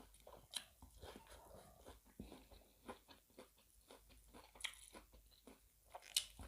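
Close-up chewing and crunching of a mouthful of spicy seafood laab with crisp raw vegetables: a run of small wet clicks with a few louder crisp snaps.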